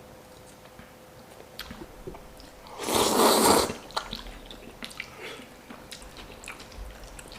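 A person eating: faint chewing and small wet mouth clicks, with one loud, breathy rush of noise lasting under a second about three seconds in.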